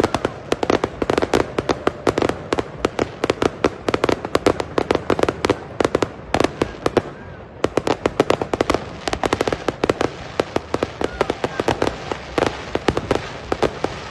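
Fireworks going off: a rapid, continuous barrage of sharp bangs and crackles, many per second, with a brief lull about seven seconds in.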